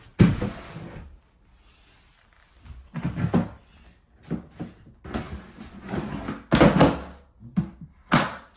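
A cat litter box of wood pellets being handled and slid back into place: a sharp knock, a short scrape, then several more knocks and a longer scraping stretch, ending in a thud near the end.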